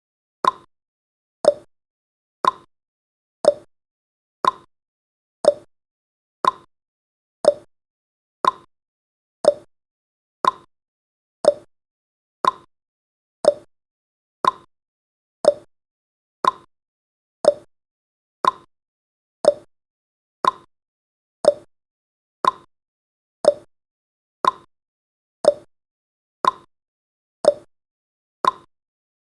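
Countdown timer's ticking sound effect: a short, sharp clock-like tick once every second, evenly spaced.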